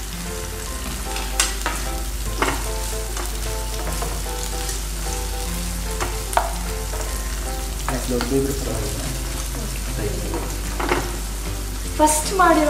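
Chopped onion and tomato sizzling in oil in a frying pan while a spatula stirs them. A few sharp clicks of the spatula against the pan stand out.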